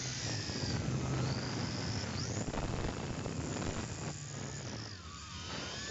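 Tarantula X6 quadcopter's motors and propellers whining, several pitches gliding up and down as the motors speed up and slow down, with a low rumble of wind on the microphone underneath.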